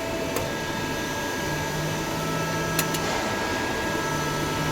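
Steady mechanical hum of a powered CNC machine, with a few thin, high steady whines and a low tone that comes and goes. Two faint clicks sound, one early and one near the middle.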